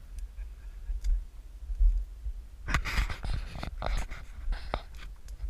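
Low wind rumble on the microphone, with about two seconds of rustling and crackling a little past halfway, like movement through dry cover.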